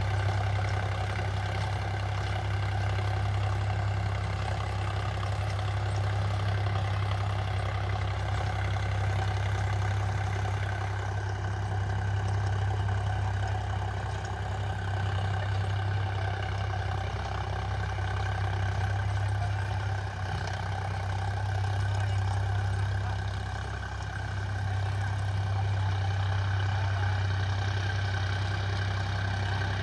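Preet 955 tractor's diesel engine running steadily with a 7-foot rotavator hitched, a deep, even drone that dips slightly in loudness a couple of times about two-thirds through.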